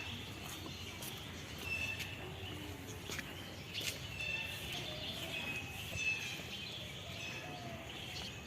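Birds chirping: short high chirps repeating on and off over steady background noise, with a few faint clicks.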